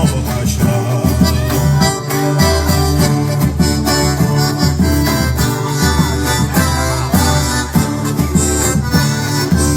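Instrumental band music with no singing: an accordion playing the lead over a pulsing bass line and a steady beat.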